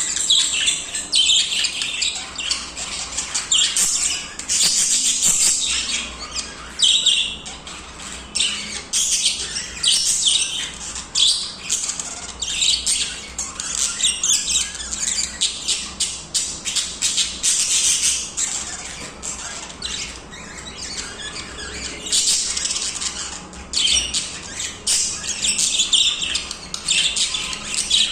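Budgies singing continuously: a dense, unbroken stream of short chirps and warbles.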